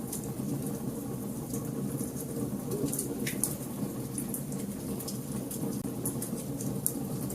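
Wood fire burning in a fireplace: irregular crackles and snaps over a steady low rumble, with a longer pop about three seconds in.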